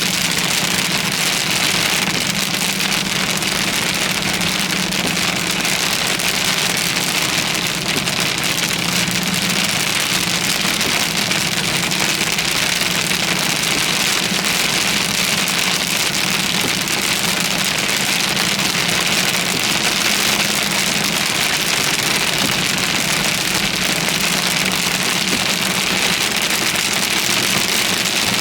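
Steady heavy rain pelting a car, with the car's engine running underneath as a low hum.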